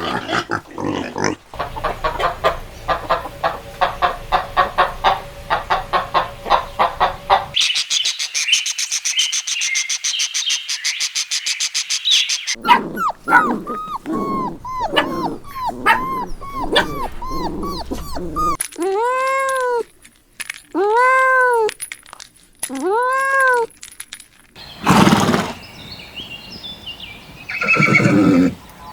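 A run of different animal calls one after another: rapid repeated calls, a high hissy stretch, a series of short rising-and-falling calls, three strong drawn-out calls, then louder calls near the end.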